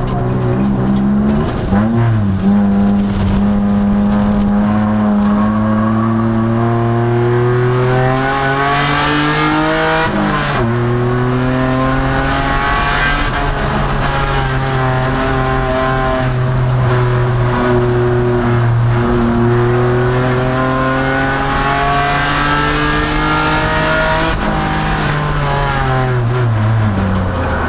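2002 Nissan Maxima's V6 engine under racing load, rising in pitch as it pulls through a gear. About ten seconds in the note drops sharply at an upshift, then it climbs again, and near the end it falls away as the car slows for a corner.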